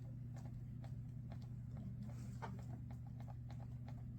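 A steady low electrical hum with faint, irregular clicks and ticks over it, a few a second.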